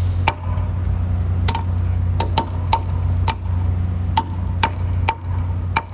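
About ten sharp metallic taps at uneven intervals, each with a brief ring, over a steady low machinery hum.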